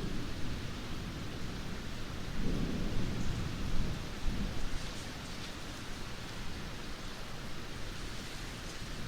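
Heavy downpour of rain falling steadily, with a low roll of thunder swelling and fading a couple of seconds in.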